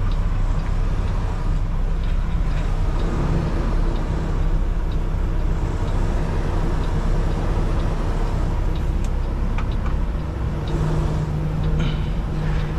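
Kenworth T680 semi truck's diesel engine running steadily at low speed while maneuvering. The engine note strengthens about three seconds in and again near the end.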